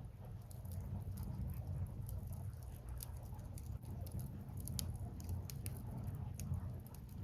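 Burning firewood crackling, with scattered sharp pops and snaps at irregular intervals over a steady low rumble.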